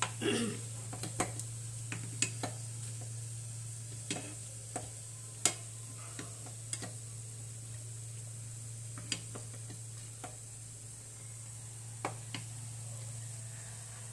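Banana fritters sizzling in a pan of hot oil, with scattered sharp clicks of a utensil against the pan as they are turned and lifted out, over a steady low hum.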